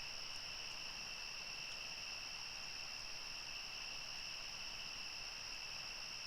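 Crickets trilling in a steady, unbroken chorus, one high even pitch with no pauses.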